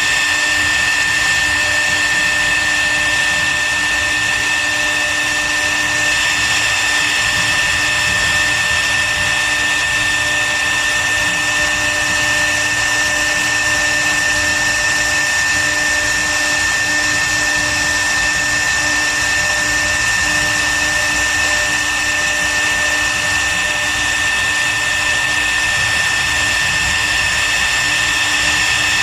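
CNC wood router's spindle running at a steady speed with a constant high-pitched whine, carving wood.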